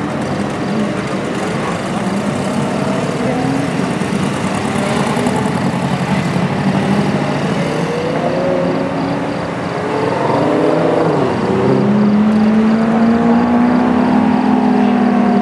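Several sports car engines running and revving in a slow procession, their pitches rising and falling over one another. About twelve seconds in, one engine settles into a steady, louder note.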